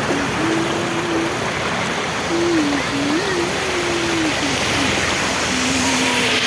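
Heavy rain pouring down, a steady loud wash of falling and running water, with a faint wavering tone in the background.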